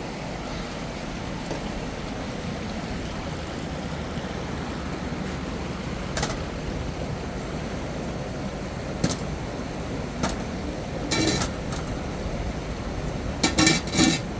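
Steady rushing background noise with a few scattered clinks and knocks, coming closer together near the end.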